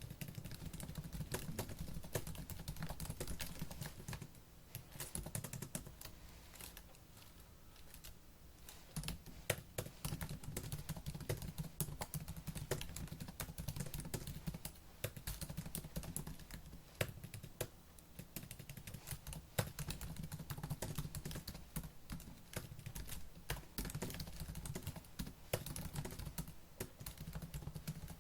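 Fast typing on a laptop keyboard: rapid, dense key clicks, thinning to scattered keystrokes for a few seconds between about four and nine seconds in.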